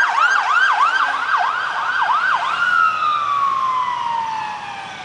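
Emergency vehicle siren sounding a fast yelp, about three rises and falls a second. About two and a half seconds in it switches to a slow wail, one long falling tone.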